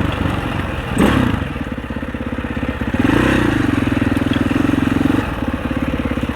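Husaberg 650 four-stroke single-cylinder dirt bike engine running on a trail ride, with a sharp clatter about a second in. The revs rise under throttle about three seconds in and ease off a little after five.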